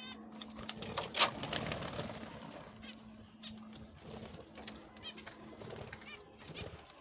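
Birds in an aviary: repeated short high chirps with pigeon-like cooing. There is one sharp knock about a second in, over a steady low hum.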